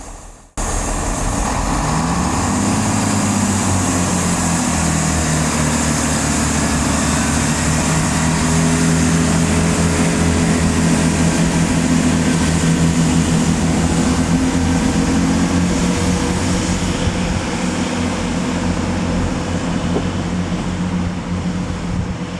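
A diesel train's engine running loudly and steadily, its pitch rising about two seconds in as it powers up and then holding, with wheel and rail noise.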